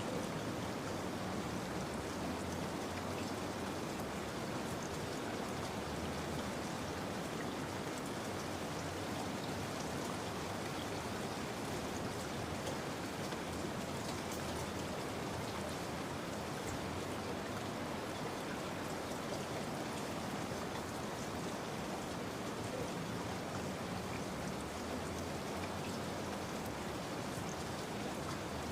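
Steady rain falling, an even hiss with the patter of many drops.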